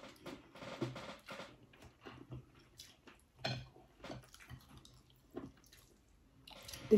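Wet mouth sounds of eating by hand: an irregular string of short smacks and clicks from chewing, lip-smacking and finger-licking, one louder smack about three and a half seconds in.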